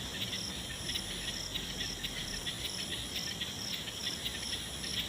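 Night chorus of crickets and other insects: several callers at different pitches, some chirping in quick, even pulses, one holding a steady very high trill.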